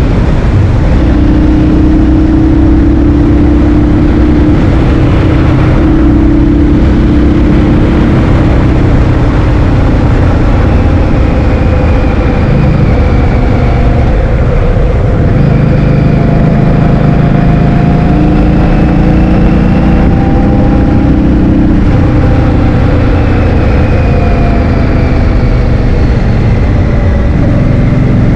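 Heavy wind noise on the microphone while riding a scooter, a loud steady roar, with the scooter's engine note running underneath and shifting in pitch every few seconds.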